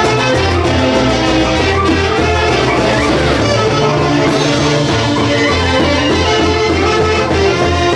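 A Peruvian folk orchestra playing a Santiago song live: held melody notes over a steady, repeating bass line.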